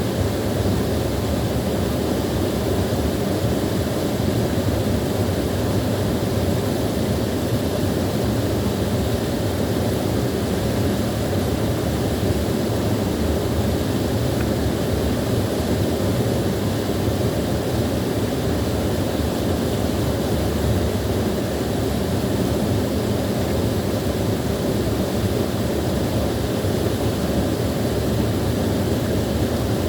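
Small waterfall: a steady, even rush of falling water, full and low, with no breaks or changes.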